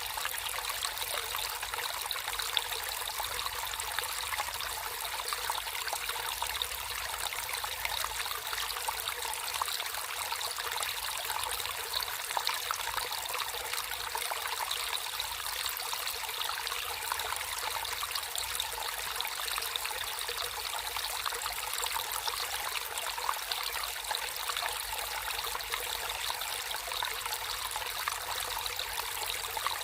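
Water trickling and flowing steadily in a small stream, an even splashing rush with no breaks.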